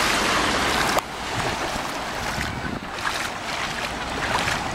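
Ocean water washing at the shoreline with wind on the microphone: a steady rushing that is louder at first and drops abruptly about a second in.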